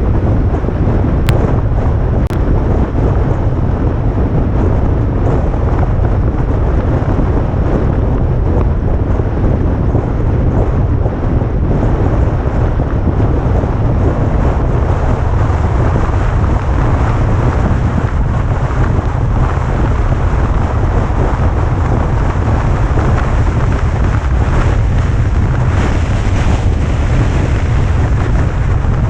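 Heavy wind buffeting on the microphone of a camera on a vehicle moving downhill. It is a steady, loud rumble that covers almost everything else, with two faint clicks a second or two in.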